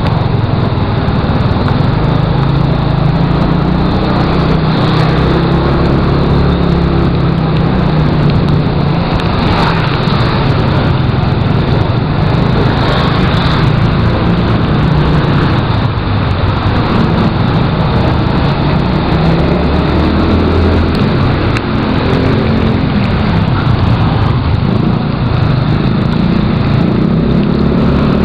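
Motorcycle engine running steadily while riding, its pitch shifting a little now and then, under a constant rush of wind and road noise.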